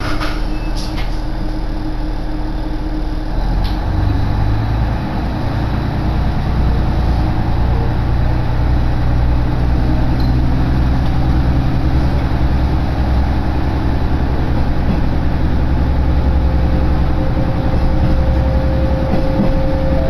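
Diesel-powered local railcar heard from inside the passenger cabin: a steady low engine and wheel hum that grows louder over the first several seconds as the train pulls out and gets under way, with a few faint clicks near the start.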